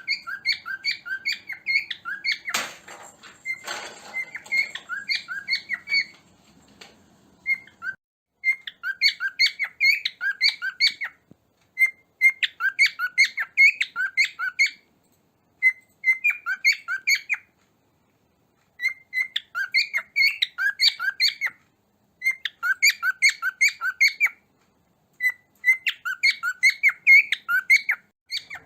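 Cockatiel chirping: bouts of quick, repeated high chirps, each lasting two to three seconds, separated by short pauses. A knock and some rustling come about three seconds in.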